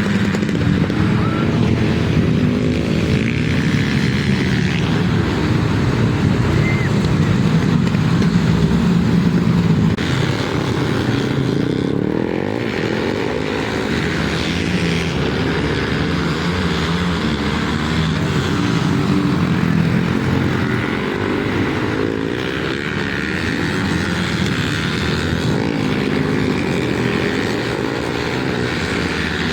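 Flat track racing motorcycles running under power around a dirt oval, a continuous engine sound with pitch wavering as the riders work the throttle. It is loudest about eight to ten seconds in and eases slightly after.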